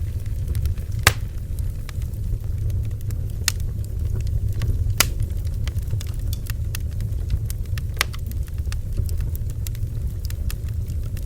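Wood bonfire crackling, with many small snaps and a few sharp pops, the loudest about a second in, over a steady low rumble.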